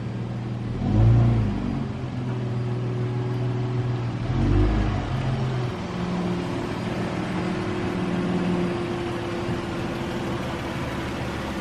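Car engine running at low speed, with two short rev blips, about a second in and again about four and a half seconds in, then settling to a steady low-speed drone as the car is moved.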